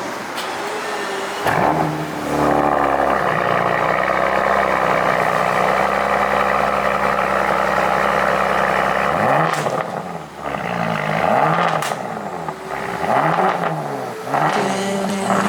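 Bentley Bentayga's engine through its custom-fabricated exhaust, held at steady revs, then rising and falling in pitch several times in quick swells from about nine seconds in.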